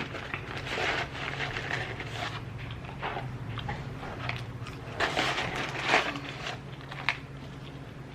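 Close-up eating sounds: chewing and biting into food in irregular bursts, with a sharp click about seven seconds in.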